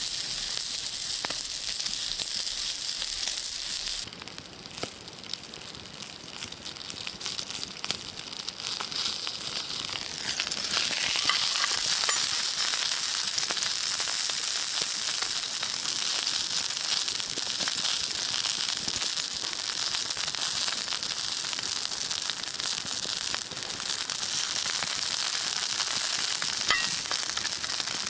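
Food sizzling and frying, a steady hiss thick with fine crackles; it drops quieter about four seconds in and grows louder again about ten seconds in.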